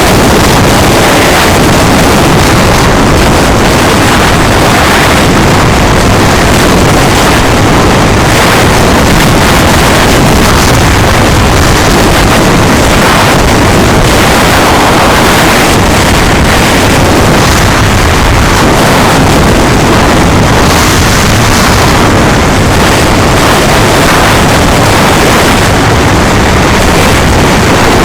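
Loud, steady rushing noise of a vehicle in motion, with heavy wind buffeting the microphone.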